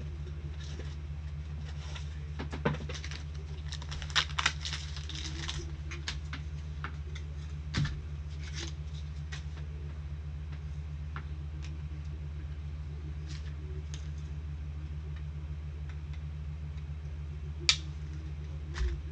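A steady low electrical hum, with scattered soft clicks and rustles of trading cards and plastic card sleeves being handled; a sharper click comes near the end.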